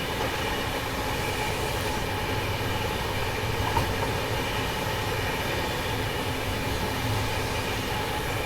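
Bandra Terminus–Bhuj AC superfast express train running steadily along the track: a continuous, even rumble of wheels on rails with a faint steady hum, no clicks or squeals standing out.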